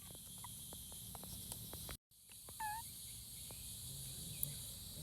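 Faint steady high-pitched chirring of crickets or other insects, with scattered light clicks and one short chirp near the middle. The sound cuts out briefly about two seconds in.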